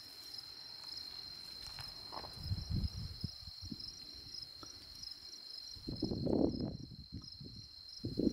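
Night insects trilling steadily at a high pitch, with low rustling and scuffing in the brush a couple of seconds in and again, louder, about six seconds in.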